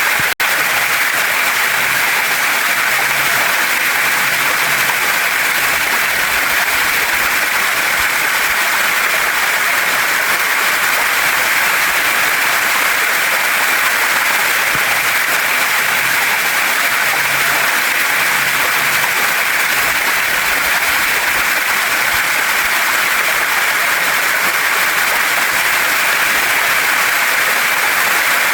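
Waterfall and stream water rushing steadily, a dense, unbroken hiss. A split-second dropout about half a second in.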